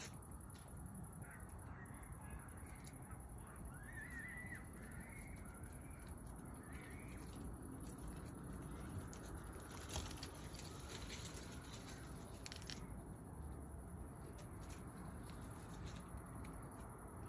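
Faint outdoor evening ambience with a few distant bird calls in the first half and a cluster of sharp clicks and rustles about ten seconds in, over a steady high-pitched tone.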